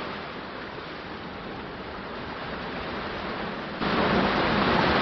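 Steady rushing water, noisy and even with no distinct drops or splashes. Near the end it jumps suddenly louder and brighter as the water recording changes.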